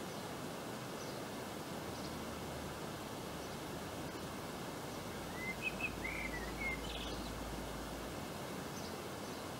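Steady outdoor background hiss of a garden, with a small bird giving a brief run of short chirps about halfway through.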